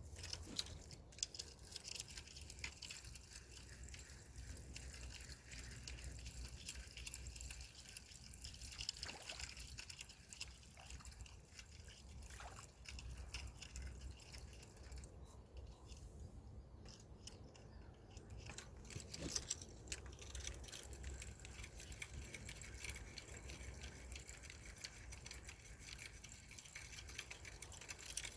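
Faint outdoor night ambience: a steady high-pitched chirring with dense fine ticking, over a low rumble, with a few small clicks and taps; the high sound thins out briefly about halfway through.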